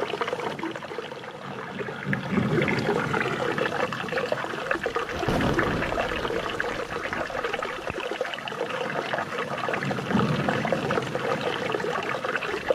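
Flowing water trickling and splashing steadily, swelling a little every few seconds.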